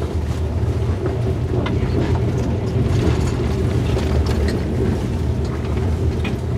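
Passenger train running at speed, heard from inside the carriage: a steady low rumble of wheels on the track with scattered clicks and knocks.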